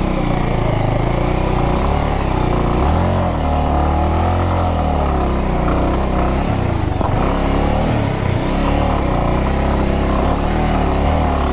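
Motorcycle engine revving up and down over and over as it labours up a steep off-road trail.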